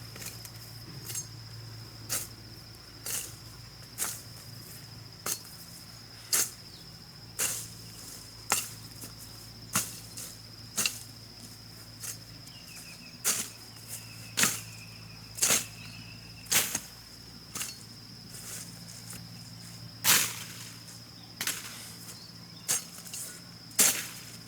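Sharp, evenly paced knocks about once a second, over a steady high-pitched insect drone.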